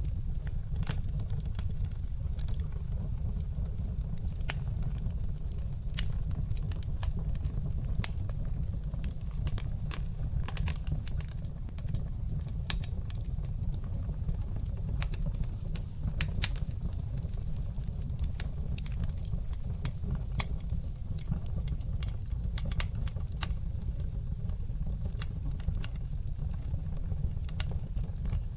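Fire burning in a fireplace: many irregular sharp crackles and pops over a steady low rumble of the flames.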